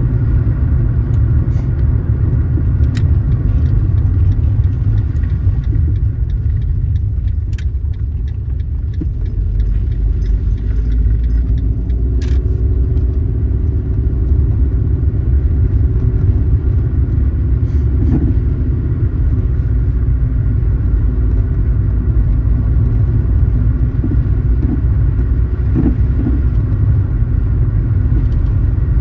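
Car being driven: a steady low rumble of road and engine noise, with a few light clicks and rattles.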